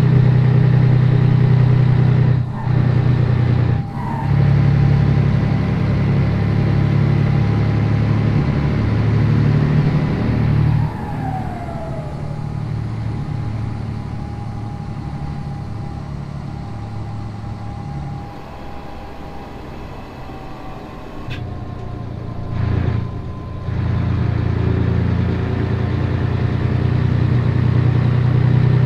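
Scania 113 truck's 11-litre straight-six turbo diesel under way, with short breaks in the engine sound at gear changes about two and four seconds in. About eleven seconds in the engine drops off to a lower, quieter running with a falling whine, then after another short break it pulls strongly again near the end.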